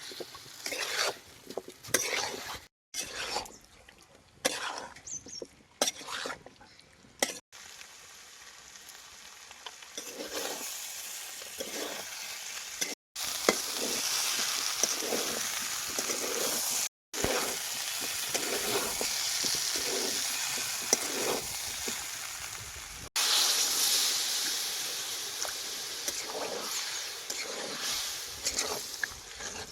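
Chicken curry frying in a pan while a utensil scrapes and stirs it: separate scraping strokes at first, then a steady sizzling hiss under the stirring from about a third of the way in, with several abrupt cuts.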